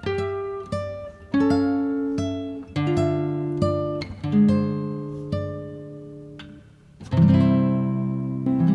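Background music on plucked acoustic guitar: single notes and chords that ring and fade, with a louder strummed chord about seven seconds in.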